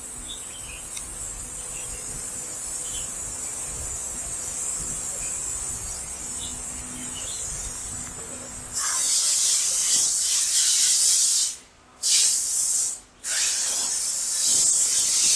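A steady high hiss, then about nine seconds in a loud jet of hissing air that stops briefly twice before running on.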